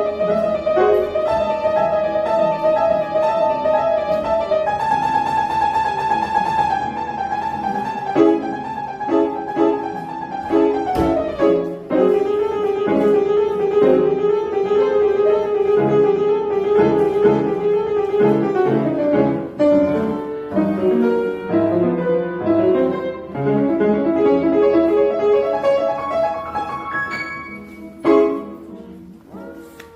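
Piano music: chords and repeated notes under a melody of long held notes, ending on a final chord near the end that dies away.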